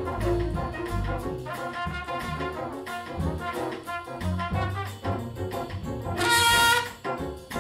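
Big-band jazz: a trumpet solo over bass, drums and brass backing. Near the end comes a loud high trumpet note, held for under a second.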